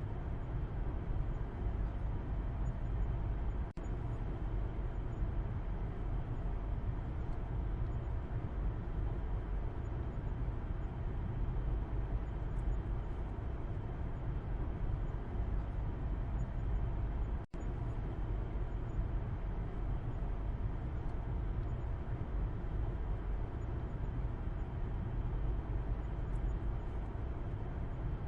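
Steady road noise inside a moving car's cabin as heard from the back seat: a low rumble of tyres and engine with a softer hiss above it. The sound cuts out for a split second twice, about 4 seconds and about 17 seconds in.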